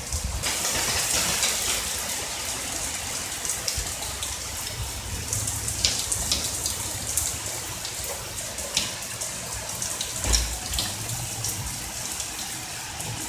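Steady rain falling during a thunderstorm, with scattered sharp drips and a faint low rumble now and then, strongest about ten seconds in.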